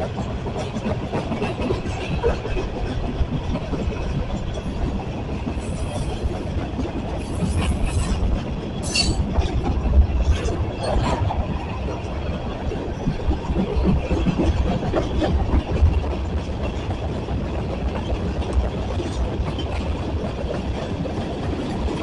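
Train rolling past on the main line, its cars rumbling and clacking over the rail joints, with a few short high-pitched squeaks around six to nine seconds in.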